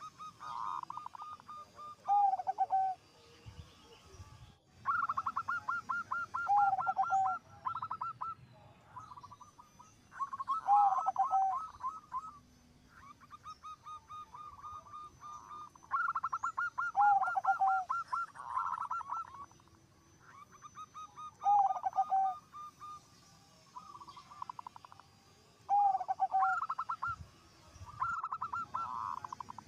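Zebra dove (perkutut) singing its cooing song, repeated about every five seconds. Each phrase is a fast rattling run of notes followed by lower, drawn-out coos.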